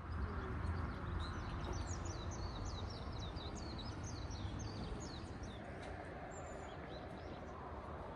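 Small birds chirping: a rapid run of quick, high chirps for the first few seconds, thinning out to a few calls later, over a steady low outdoor rumble.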